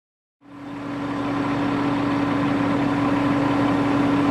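A work-site engine running steadily at a constant speed with a steady hum, fading in about half a second in.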